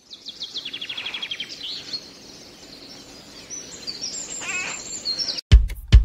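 Birdsong: a rapid trill of high, falling notes in the first second and a half, then scattered chirps over a faint steady hiss. Near the end, loud, deep, rhythmic thumps of a music beat cut in and are the loudest thing.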